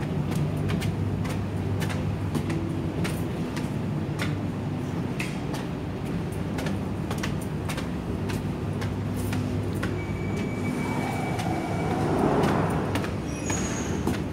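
Steady low machine hum with faint clicks throughout, in a London Underground station. A thin whine comes in partway through, and a rushing sound swells near the end.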